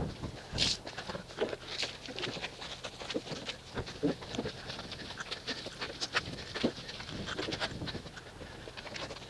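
Wet synthetic wash mitt scrubbing over car paint: a run of irregular short rubbing strokes and scrapes, some with a brief squeak.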